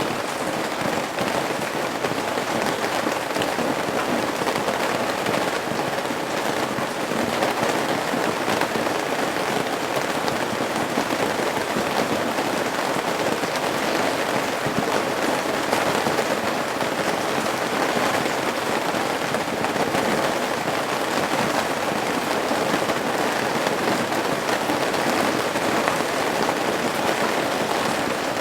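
Steady rain falling at a roof's eaves: a dense, even hiss of countless drops with fine crackling ticks.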